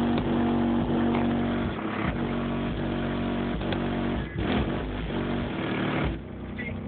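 Car subwoofers, a 12-inch and two 10-inch Bazookas, playing heavy held bass notes that change pitch a few times, with the car's trunk rattling and buzzing along.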